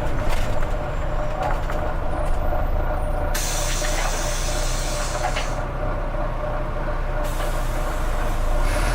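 Volvo B9TL double-decker bus's diesel engine running steadily, with two long hisses of compressed air from its air system, the first about three seconds in and the second near the end.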